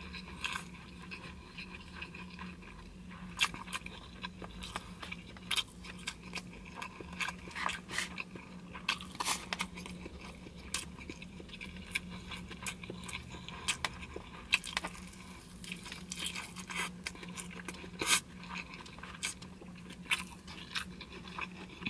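Close-up mouth sounds of a man chewing grilled beef and rice: irregular wet smacks and clicks, with a fork scraping and tapping a styrofoam takeout box. A faint steady low hum runs underneath.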